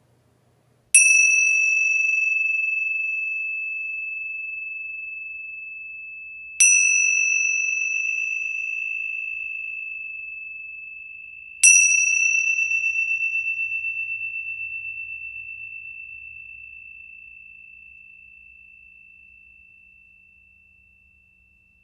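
A high metal chime struck three times, about five seconds apart, each strike ringing in one clear tone that slowly fades; the last rings out for about ten seconds with a slight waver.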